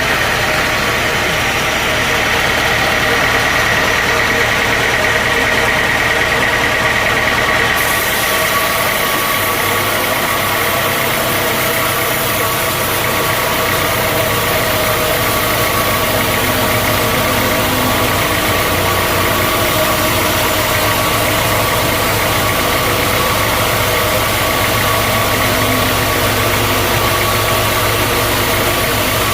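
Sawmill machinery running steadily, a continuous mechanical drone with a high whine in it; the sound changes abruptly about eight seconds in.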